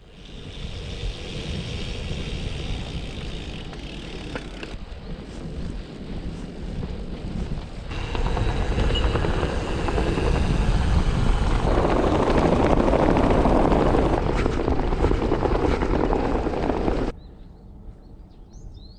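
Wind rushing and buffeting over the microphone of a camera on a moving bicycle, in several abruptly changing stretches. About two seconds before the end it cuts to a much quieter background, with birds chirping near the end.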